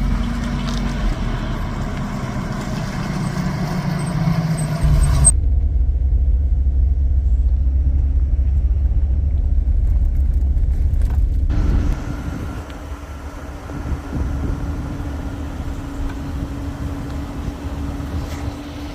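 A motor vehicle's engine running close by, its pitch falling slowly over the first few seconds. About five seconds in, everything but a heavy low rumble cuts out abruptly for about six seconds. A steady hum with lighter background noise follows.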